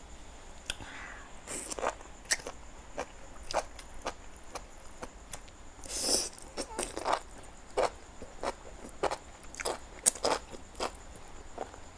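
Close-miked eating of enoki mushrooms and spicy instant noodles: wet chewing, with irregular mouth clicks and smacks, and a longer slurp about six seconds in.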